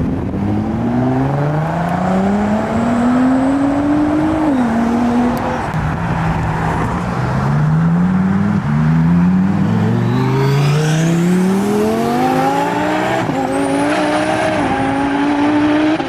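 A powerful car accelerating hard through several upshifts: the engine's pitch climbs, drops at each shift, and climbs again. A high rising whistle comes in about ten seconds in.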